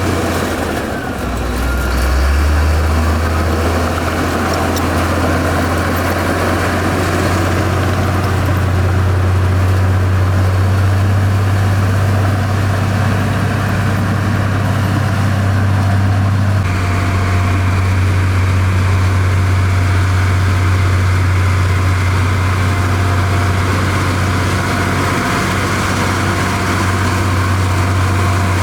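Heavy diesel engine of an earthmoving machine running steadily with a low drone. Its pitch dips briefly about a second in, and the tone shifts slightly around the middle.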